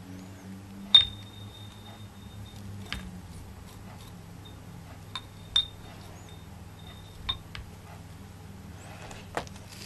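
A few sharp clinks of a hard object being tapped, the loudest about a second in; that one and another midway each ring on with a high tone for about a second, over a low steady hum.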